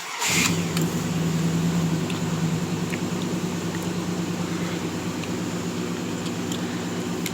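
A 1996 Dodge Ram 1500's V8 fires up with a short burst about a quarter second in, then idles steadily through a Flowmaster Flow FX cat-back dual exhaust. The idle is a little higher for the first couple of seconds, then eases down and holds.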